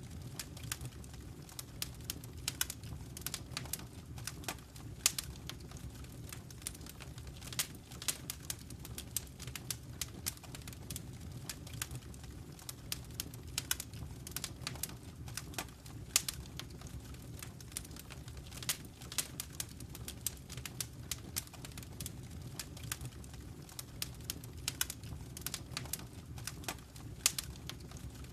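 Wood fire in a fireplace crackling: many sharp, irregular pops and snaps, several a second, over a steady low rumble of the flames.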